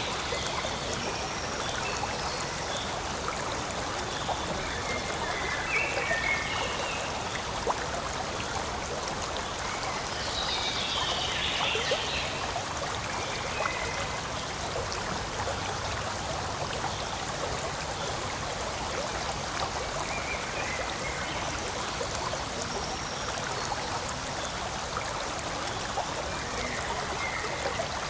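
Forest stream flowing and trickling steadily, with a few short higher-pitched sounds rising above the water now and then.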